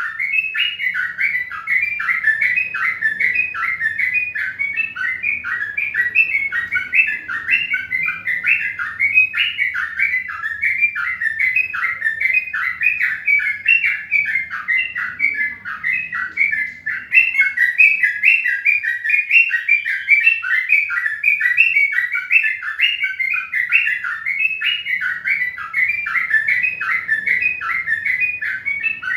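Bird chirps repeated rapidly without a break, several a second, at a steady level.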